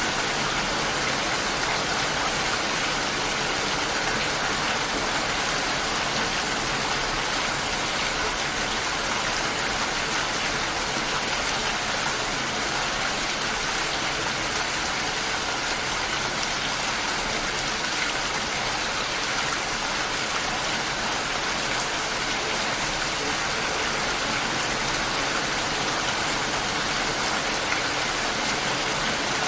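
Light rain falling steadily, an even hiss of drops with no thunder.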